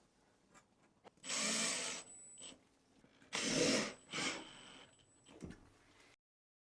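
Power drill driving screws into wood in two runs of about a second each, with a short third pulse, the motor giving a thin high whine. The sound cuts off suddenly near the end.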